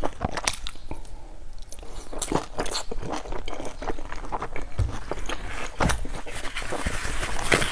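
Close-up eating sounds: biting into and chewing a large stuffed dumpling, with many irregular mouth clicks.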